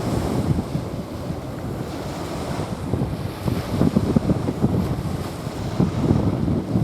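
Small waves washing onto a sandy beach, with gusts of wind buffeting the microphone and rumbling unevenly, strongest in the second half.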